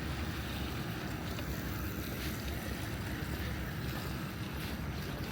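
Steady outdoor background noise, mostly a low rumble, with a few faint clicks.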